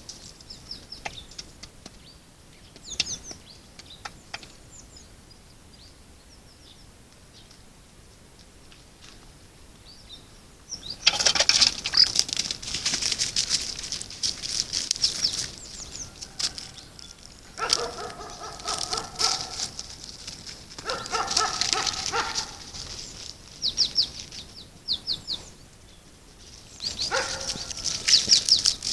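Birds calling in repeated bursts of rapid, high chirps, with lower calls in between at times. A quiet stretch of several seconds with a few faint clicks comes before the calling starts, about eleven seconds in.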